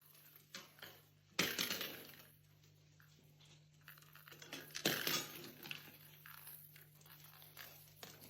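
Two sharp clinks or knocks of a hard object, about a second and a half and five seconds in, each fading away, with a few faint clicks between them over a faint steady low hum.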